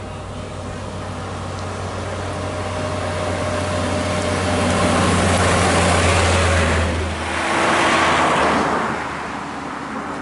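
A heavy road vehicle passing close by. Its low engine drone and tyre noise build up over about five seconds and peak. The engine tone drops away, a second swell of road noise follows as it goes past, and then it fades.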